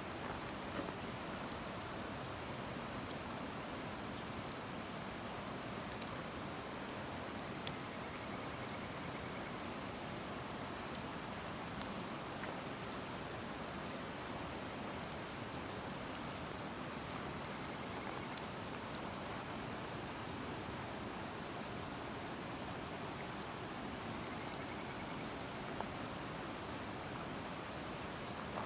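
Wood fire burning in a Uniflame fire stand, the firewood giving a sharp crackling pop every few seconds over a steady rushing hiss.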